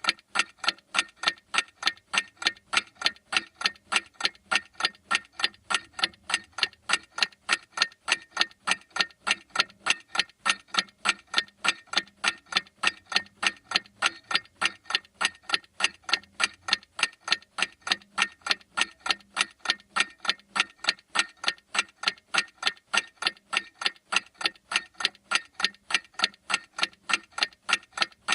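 Clock ticking steadily, with sharp, evenly spaced ticks a few times a second.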